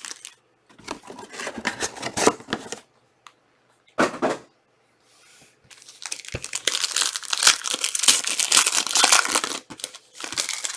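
Trading card pack wrappers being torn open and crinkled by hand: two short bursts of rustling, then a few seconds of dense, continuous crinkling.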